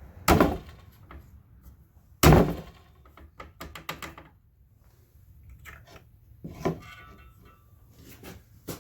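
Workshop handling noise at the spot welder: two loud thunks about two seconds apart, then lighter knocks and clicks, as the clamped workpiece and tools are handled after the weld.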